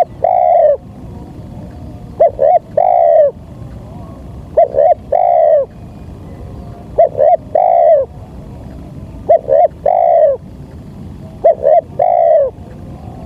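Spotted dove (tekukur) cooing: about five phrases of two short coos and one longer, slurred coo, repeated roughly every two and a half seconds. This is a recording of the call used as a lure for trapping doves.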